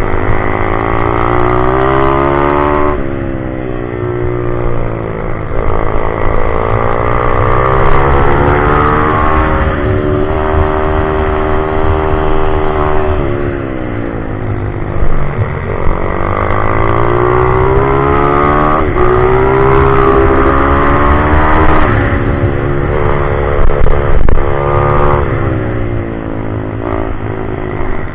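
Pit bike engine revving up and dropping back over and over, its pitch climbing through the gears and falling off every few seconds, as it is ridden hard around a track.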